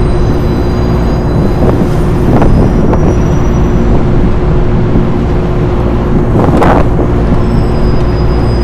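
Steady drone of rooftop HVAC machinery, a constant mechanical hum with a held mid-pitched tone over a low rumble. A short click from tool handling sounds about six and a half seconds in.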